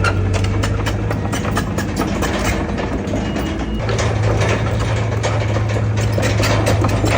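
Heavy diesel earthmoving machinery running steadily, with a rapid metallic clatter throughout. The engine note eases off around three seconds in and comes back stronger about a second later.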